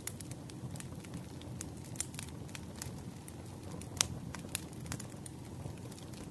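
Campfire crackling: irregular sharp pops and snaps from burning wood over a steady low rumble of the flames, with one louder pop about four seconds in.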